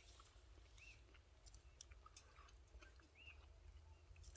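Near silence in woodland: a faint bird chirp, a short rising-and-falling note, twice, with a few soft ticks.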